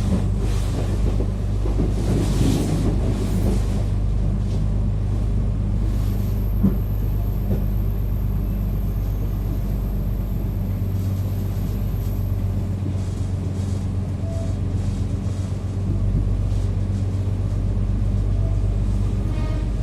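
Airport train running, heard from inside the carriage: a steady low rumble with light rattles and knocks.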